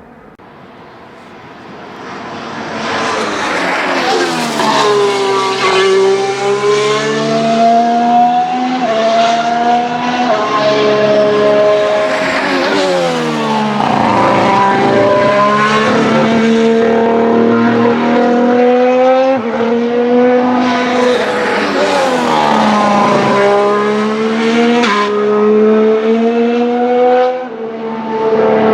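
2019 Formula One cars' 1.6-litre turbocharged V6 hybrid engines passing at racing speed, one after another. Each pass ends in a sharp fall in pitch as the car goes by, and gear changes show as steps in the engine note between passes.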